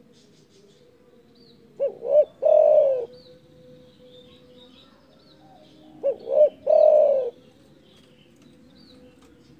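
Spotted dove (derkuku) cooing: two phrases about four seconds apart, each two short coos followed by one longer coo. Faint high chirps of small birds sound between the phrases.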